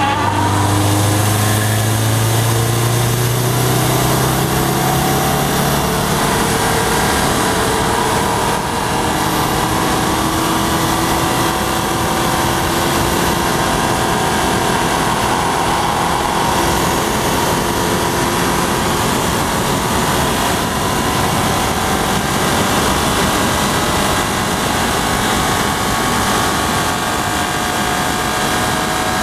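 2011 Subaru WRX's turbocharged flat-four engine running hard at speed, its note climbing slowly as the car accelerates, twice, over a steady rush of wind and road noise.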